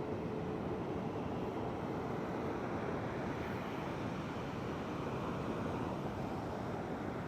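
Steady ocean surf with wind on the microphone. A faint steady hum fades out about three seconds in.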